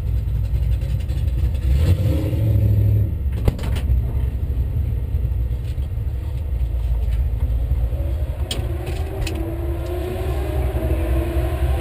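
1965 Plymouth Belvedere drag car's engine idling with a steady low rumble, heard from inside the cabin, with a brief swell about two seconds in. A few sharp clicks, and a rising whine building from about eight seconds in.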